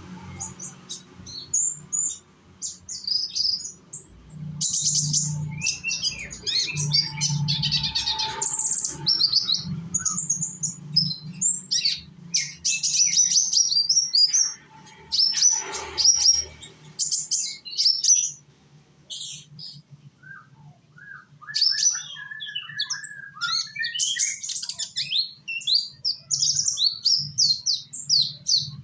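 A young konin (sunbird) singing: rapid runs of high, thin chirps and twittering trills, with a short pause past the middle and a few lower notes as the song starts up again.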